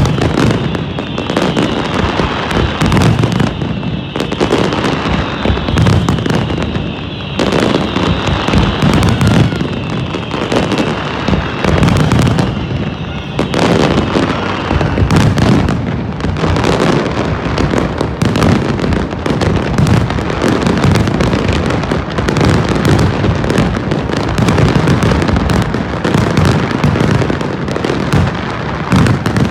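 Fireworks going off in a dense, continuous barrage of bangs and crackles. A high hissing band runs over the first half and stops about thirteen seconds in.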